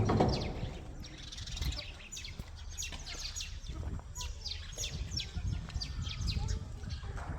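Small birds chirping, a steady run of many short, high, falling calls, over a low rumble. A single loud knock right at the start.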